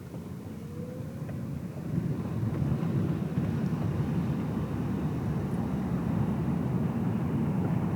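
Car driving, heard from inside the cabin: steady low road and engine noise, which grows louder about two seconds in and then holds.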